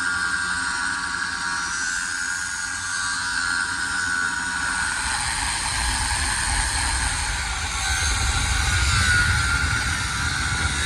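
A power tool running steadily: a high whine over a loud hiss, with a low rumble building in the second half.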